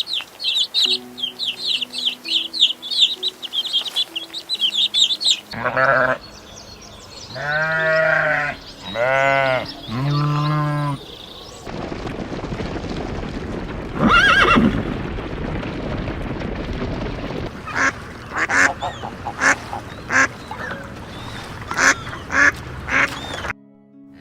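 A run of different animal calls. First come rapid high chirping calls for about five seconds, then three long calls, each arching up and back down in pitch. A noisy stretch follows, with a loud short cry and then a string of short sharp calls.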